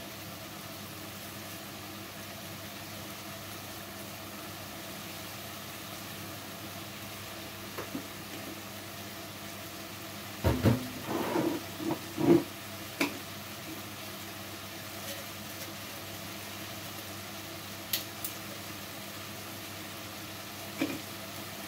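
Chicken frying in a pan with a steady low sizzle under a faint hum. About ten seconds in, a few loud knocks and clinks of kitchen things are handled, then single sharp clicks come a few seconds later and again near the end.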